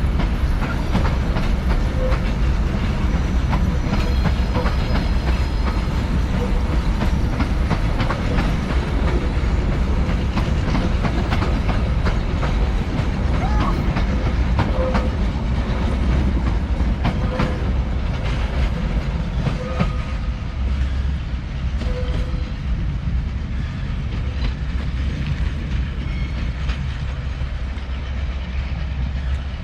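Vintage passenger train running along the track: a steady low rumble with the wheels clicking over rail joints.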